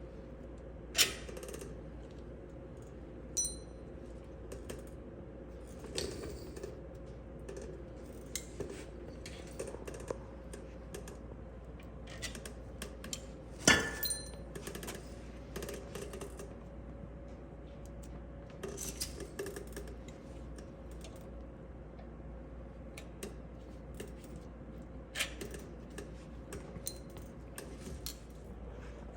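Scattered metal clinks and clacks of tools and parts being handled during wheel-hub teardown, with two louder clanks about a second in and near the middle, over a steady hum.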